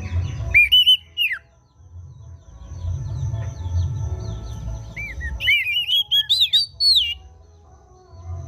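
Oriental magpie-robin (kacer) singing loud, arching whistled phrases in two bursts, about half a second in and again around five seconds in, with soft chirps between them. It is a lure song played to prompt a silent kacer to sing.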